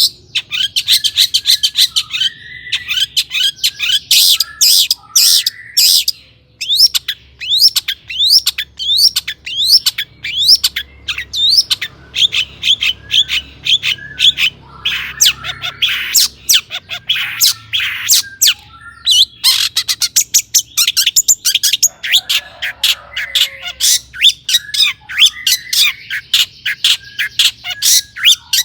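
Long-tailed shrike (cendet) singing without pause: a fast, varied stream of short sharp chirps and quick rising whistled notes, mixed with harsh rasping calls.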